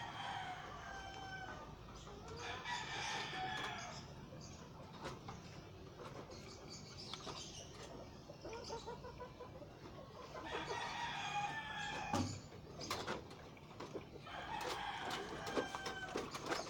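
Game fowl roosters crowing: about four long crows spread through, with a couple of sharp knocks in between.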